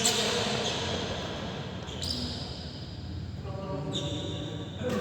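Badminton rally in a sports hall: sharp racket strikes on the shuttlecock, four in about five seconds, with high-pitched shoe squeaks on the court floor after several of them, over a murmur of voices.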